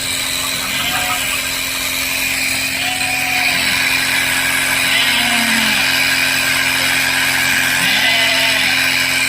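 Small engine-driven spray pump running steadily, with a continuous hiss as the hose sprayer works.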